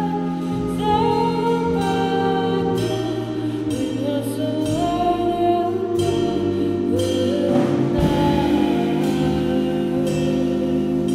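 Live band music with singing: sustained chords under a melody that steps up and down.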